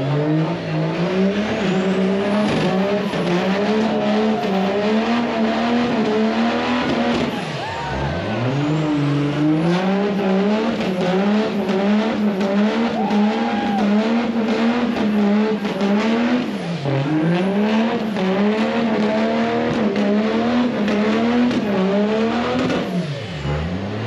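Truck engine held at high revs, its pitch wobbling quickly up and down as if bouncing against the limiter; the revs drop away and climb back three times.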